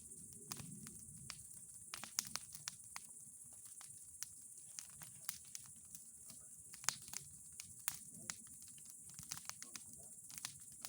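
Wood bonfire crackling: irregular sharp snaps and pops, a few of them much louder than the rest, over a faint steady hiss.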